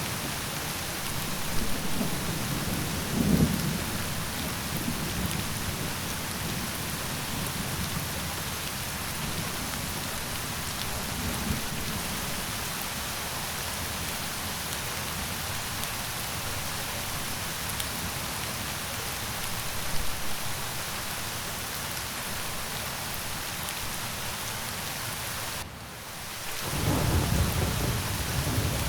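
Steady rain with rolls of thunder: a low rumble about two to four seconds in and another that swells near the end. The rain briefly drops out for about a second just before that last rumble.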